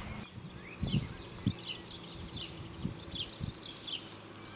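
Small birds chirping: a run of short, high, downward-sliding calls repeating every half second or so, with a few faint low knocks underneath.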